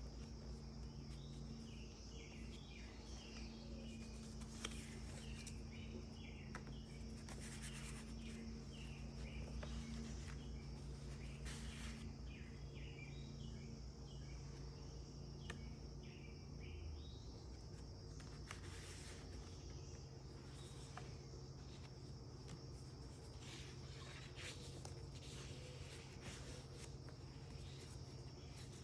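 Faint birds chirping in short bursts over a steady high insect drone and a low hum; the chirping stops a little past halfway. A few brief soft rustles come through now and then.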